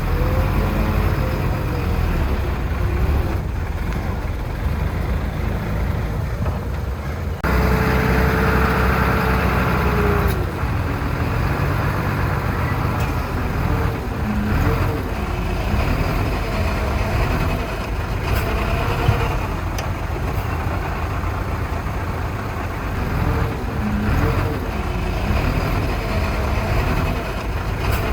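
Heavy diesel engines of earthmoving machinery running steadily, with the engine note rising and falling at times. The sound changes abruptly about seven seconds in.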